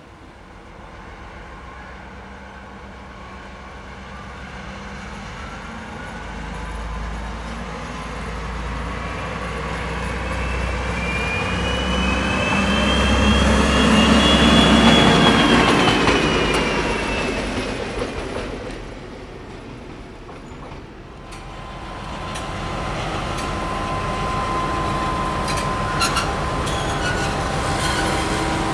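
M62 diesel locomotive hauling a freight train, growing louder to a peak about halfway through with a deep rumble. A high whine rises and then falls as it goes by. After a brief dip it carries on steadily with a held tone and a few clicks near the end.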